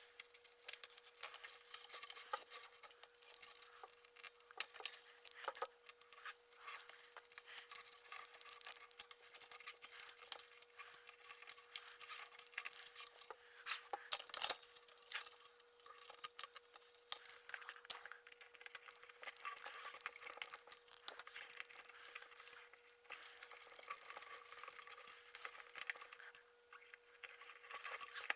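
Scattered scraping, rubbing and small clicks of stiff single-strand telephone wire being worked in around the plastic cooling vents of a boombox case, over a faint steady tone.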